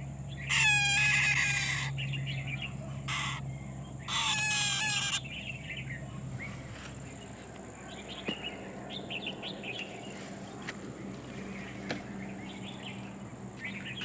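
Birds calling: two loud calls, each a run of falling notes, about half a second in and about four seconds in, with faint high chirping between and after them.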